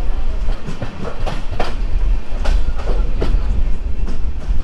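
Passenger express train running on the rails as it pulls into a station: a steady low rumble with irregular clacks of the wheels over rail joints.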